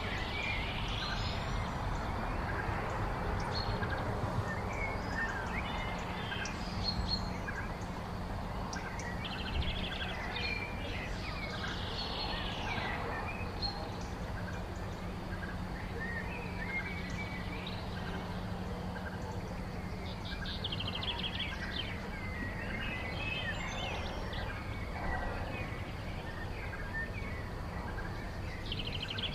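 Several wild birds singing and calling, with short chirps and trills coming one after another over a steady background hiss. A low steady hum runs underneath through the middle part.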